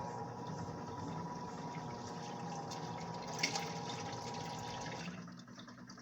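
Top-loading washing machines (a Lac 16 kg and a Dako 10 kg) in the wash phase, water churning under the agitators with a steady motor hum. The sound drops away about five seconds in.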